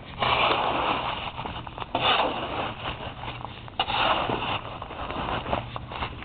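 Crusted sleet and ice being scraped and crunched in long strokes, about two seconds apart. There are three strong strokes, then quieter ones near the end.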